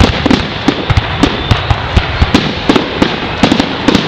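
Fireworks display in its finale: aerial shells bursting in rapid, irregular bangs, several a second, over a continuous crackling din.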